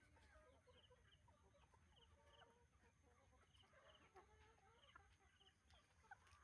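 Faint clucking of chickens, with small scattered calls and clicks over a quiet background.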